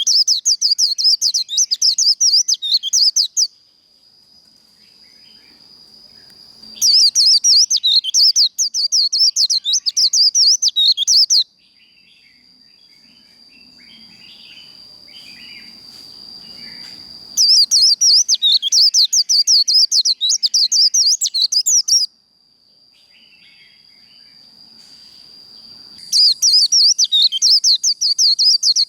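White-eye (vành khuyên) singing its fast, twittering 'líu' song in long rapid bouts of about four to five seconds, four times, with short pauses between them. A faint steady high tone continues through the pauses.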